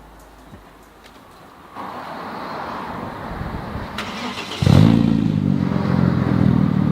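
Audi A4 engine being started with its exhaust removed: the starter cranks for a few seconds, then the engine catches about four and a half seconds in and runs loud and open.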